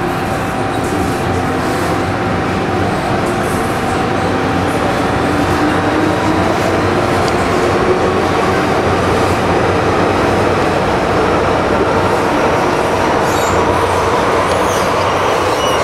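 MTR M-Train electric multiple unit running at speed, heard from inside the car: a steady rumble of wheels and running gear with faint whining tones. A few brief high-pitched wheel squeals come near the end.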